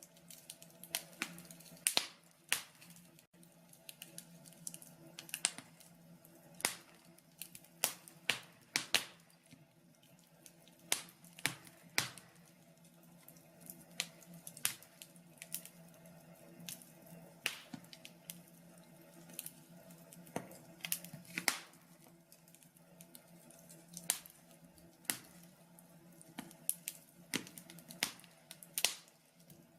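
Wood fire in a log burner crackling, with sharp pops at uneven intervals, over a faint steady low hum.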